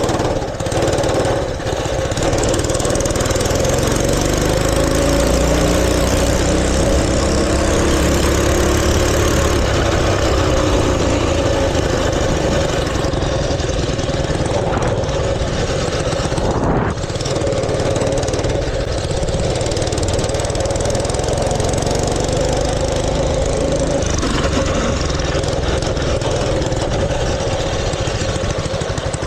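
Mini bike's small gasoline engine running steadily, with brief drops in level near the start and about halfway through.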